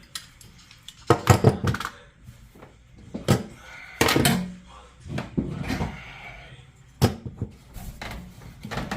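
Irregular knocks and clatters of things being handled in a small room: a quick run of them about a second in, then single thumps around three, four and seven seconds in.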